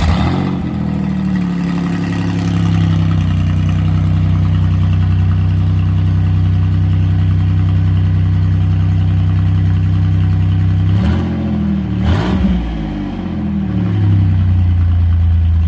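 Twin-turbo V6 Mustang engine just after start-up. It runs at a fast idle that drops to a lower, steady idle about three seconds in, and the engine speed rises and falls briefly near the end before it settles. The idle is fine despite a larger DW 340 lph fuel pump on an untuned car.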